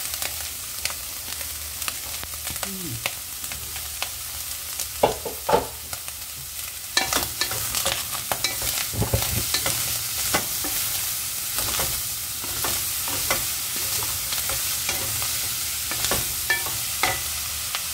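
Bacon and chopped string beans sizzling in a nonstick frying pan while a wooden spatula stirs them, scraping and knocking against the pan. Two louder knocks come about five seconds in, and the scraping gets busier from about seven seconds on.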